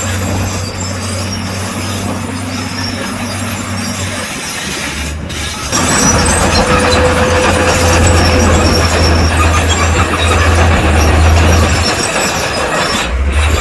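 Bulldozer's diesel engine running under load, with a steady low hum and the metallic rattle of its steel crawler tracks. There is a brief drop about five seconds in, and it is louder after that.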